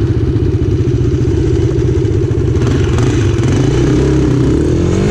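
Dirt bike engine running close to the microphone at fairly steady revs, revving up in the last second, with wind rushing on the microphone.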